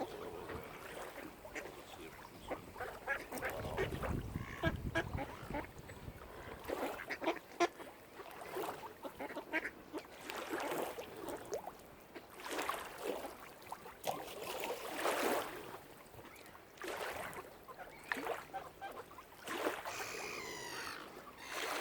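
Waterfowl calling, many short calls one after another, with a brief low rumble about four seconds in.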